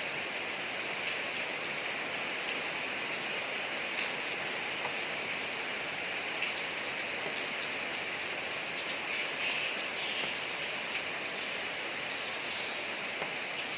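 Steady rain falling on a street: a constant hiss with faint scattered drop ticks.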